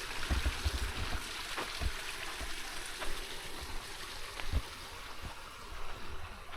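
Wind buffeting the microphone in low gusts over a steady outdoor hiss, with a few faint clicks or crunches scattered through.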